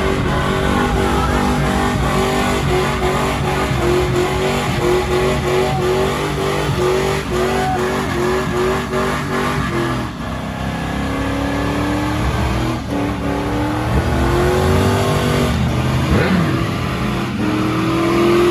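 Car engine revving hard, held at high revs in a fast repeating pattern for about ten seconds. It then drops and climbs in pitch several times as the car accelerates away.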